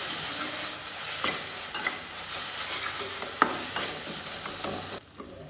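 Mustard paste masala sizzling in oil in an aluminium kadai as a metal spatula stirs and scrapes it, with a few sharp clinks of the spatula on the pan. This is the masala being sautéed (kosha) before the fish goes in. The sound drops near the end.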